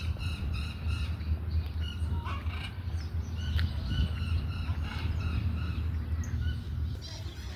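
Birds chirping in quick, repeated short notes, over a steady low rumble.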